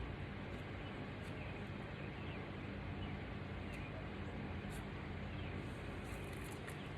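Steady background hum of a workshop, with a few faint high chirps and light ticks.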